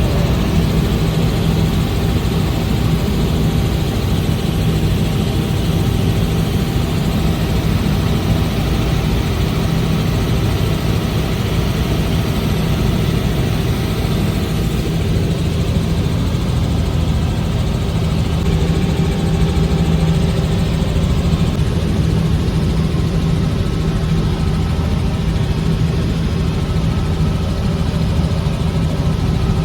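Helicopter's turbine engine and rotor running with a steady, loud drone that holds the same pitch throughout.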